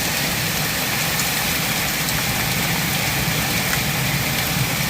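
Heavy rain pouring steadily, with a few faint scattered ticks of drops striking.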